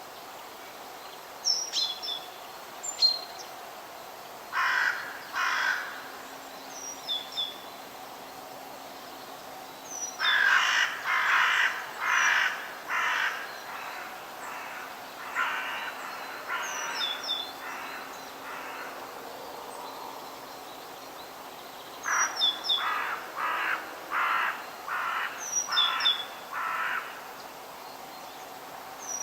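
Forest bird ambience: a large bird gives harsh calls in runs of two to seven, with short high chirps from a smaller bird over a steady background hiss.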